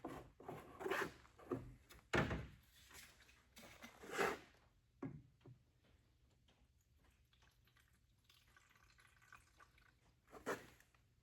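Knocks and clatter of the Husqvarna 150 BT backpack leaf blower and its parts being handled as it is readied for fuelling, several in quick succession, then a quiet spell and one louder knock near the end.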